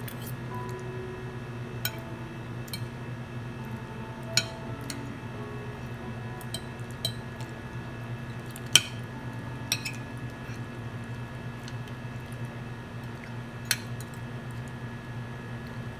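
Cutlery clinking against a plate while eating: a handful of short, sharp clinks spread out, the loudest about nine seconds in, over a steady low hum.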